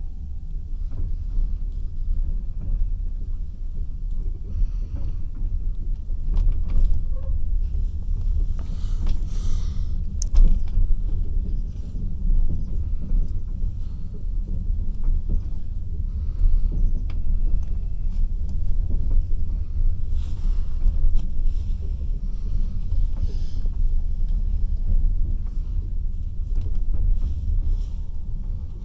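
Passenger train running along the track, a steady low rumble of wheels on rails with scattered faint clicks.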